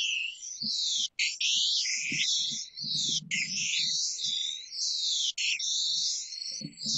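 Image-to-sound output of the vOICe software for the blind: a live webcam picture turned into a dense wash of high chirping, sweeping tones. It scans the image over and over, with a brief gap about every two seconds.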